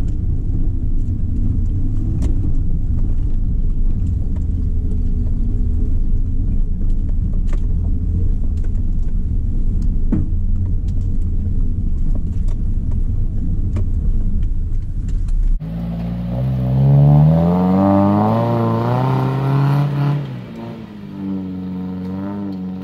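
Low, steady rumble of a Suzuki off-roader's engine and drivetrain heard from inside the cabin, crawling along a rough dirt track. About 15 seconds in it cuts to a Suzuki 4x4 engine revving, heard from outside; the pitch climbs for a few seconds, then drops away about 20 seconds in.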